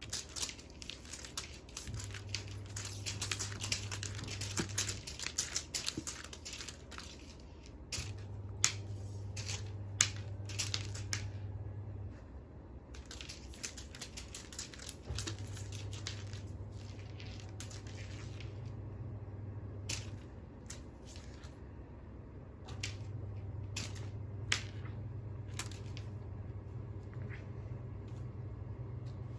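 Bursts of quick crunching and crackling clicks, dense at first and sparser later, over a low steady hum that starts and stops several times.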